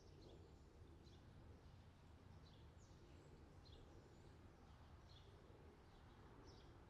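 Faint outdoor summer ambience: small birds chirping, short high down-slurred chirps about once a second, over a low steady rumble.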